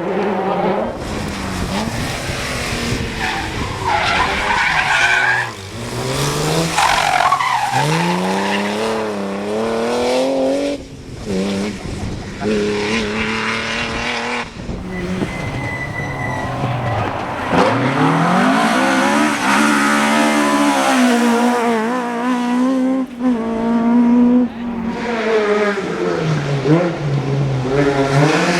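Rally cars driven flat out on a stage: engines revving hard, rising and falling in pitch through gear changes and lifts over several passes, with tyres skidding.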